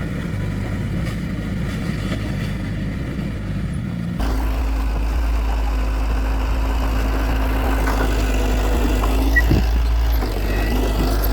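Heavy diesel earthmoving machinery running steadily. About four seconds in the sound changes abruptly to a louder, deeper engine hum.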